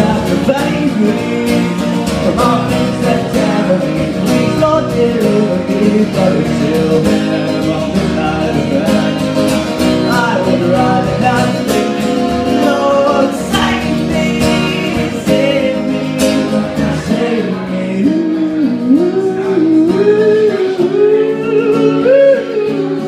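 Indie folk band playing live, with guitar and singing. The low bass drops out about seventeen seconds in, leaving guitar and a wavering sung line near the end.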